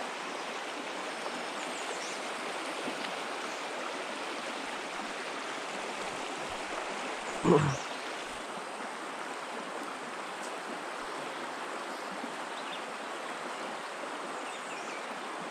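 Creek water running steadily, an even rushing. One short thump about halfway through is the loudest moment.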